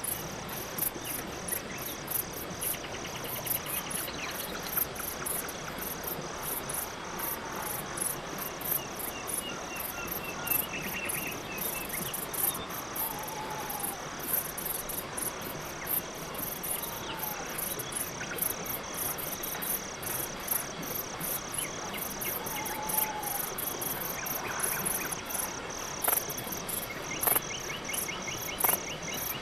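Crickets chirping in a steady, even rhythm, high-pitched and continuous, with a few faint short trills and brief falling calls from other animals now and then.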